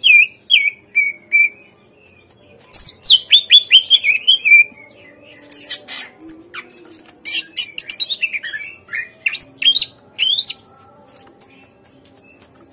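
Cucak ijo (leafbird) singing: phrases of quick, loud whistled notes that slur sharply downward, separated by short pauses, with a lull of about two seconds near the end. It is a lure recording meant to make a caged cucak ijo answer and sing.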